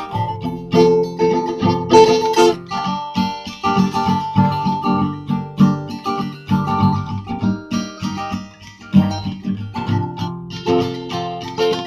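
Acoustic guitar playing an instrumental break in a country song, a run of picked notes and strums.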